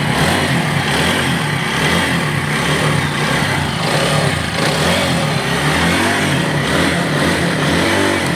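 TVS Apache RTR 4V motorcycle's single-cylinder engine running steadily near idle, heard at the silencer after the fix of two added screws, which is meant to have stopped the silencer's rattle.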